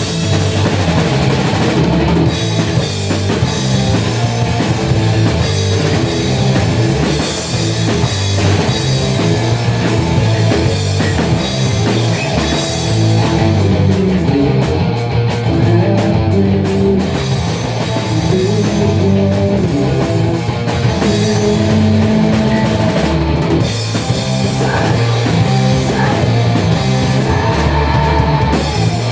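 A rock band playing without a break: drum kit, electric guitar and bass, loud and steady.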